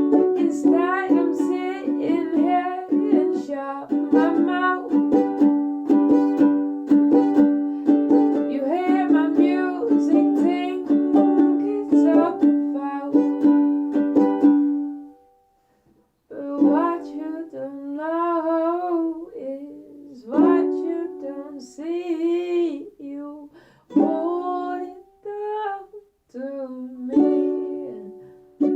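Ukulele strummed in quick chords with a singing voice over it. About halfway through the music stops briefly, then comes back with sparser chords and drawn-out sung phrases.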